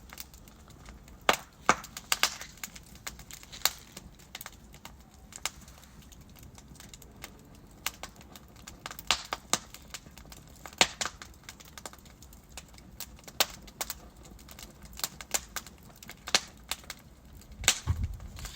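Burning logs in a fireplace crackling, with irregular sharp pops over a faint steady rush of the flames. A louder pop with a low thud comes near the end.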